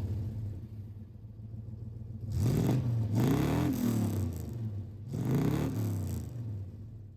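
Chevy Tahoe V8 running through a newly fitted MagnaFlow muffler. The revs rise and fall back twice, about two and a half seconds in and again about five seconds in, over a steady low rumble between them.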